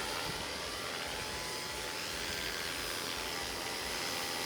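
Radio-controlled model aircraft coming in to land, its motor a steady drone, with wind buffeting the microphone.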